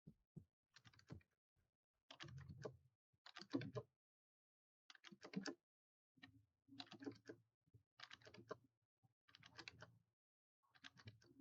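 Faint computer keyboard typing: short bursts of keystrokes every second or two, with quiet gaps between.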